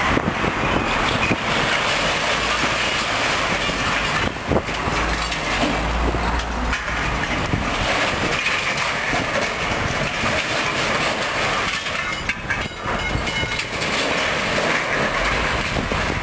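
Dump truck tipping a load of scrap metal (appliances, file cabinets and other metal junk): a continuous jumble of metal clattering and scraping as the load slides out of the bed, with a sharp bang about four seconds in and a heavy low rumble just after, over the truck's running engine.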